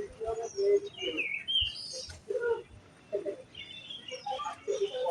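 Birds calling with many short chirps and calls, some low and some higher, curving notes, overlapping throughout.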